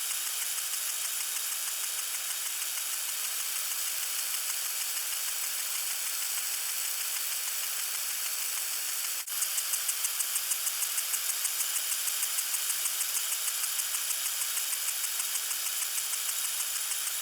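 Lawn sprinkler spraying water with a steady hiss. About halfway a brief click breaks it, and after that the spray pulses evenly, about three times a second.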